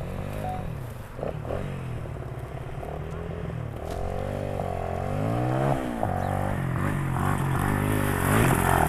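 Pit bike engine revving up and down as the bike is ridden up a slope, its pitch rising and falling several times and getting louder near the end.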